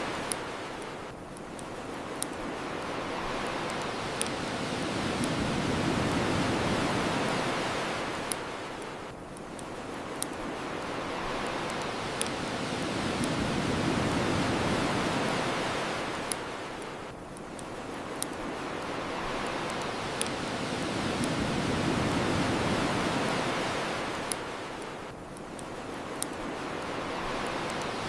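Ocean waves washing onto the shore, swelling and fading in slow cycles about every eight seconds, with scattered sharp pops from a crackling bonfire.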